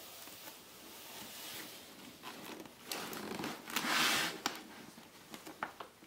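Packaging rustling and crinkling as parts are unpacked, loudest about four seconds in, followed by a few light clicks and knocks.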